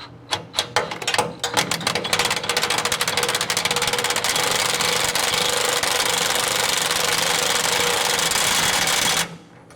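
Impact wrench hammering on a stuck fitting: a few separate strikes at first, then a continuous rapid hammering rattle for about eight seconds that cuts off suddenly near the end.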